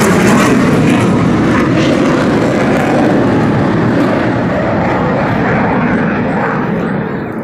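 Aircraft flying past, its engine noise loud at first and then fading away as it moves off, the high part of the sound dying out first.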